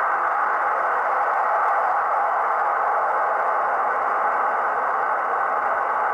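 Tsunami 2 decoder's gas turbine sound played through an HO scale model locomotive's small speaker: a steady rushing turbine roar, the turbine running at raised RPM as the locomotive works under a heavy pull.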